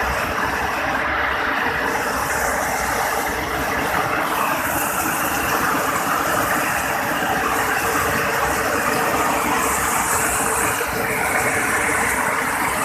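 Heavy rain falling: a loud, steady, dense hiss that does not let up, with a faint steady hum underneath.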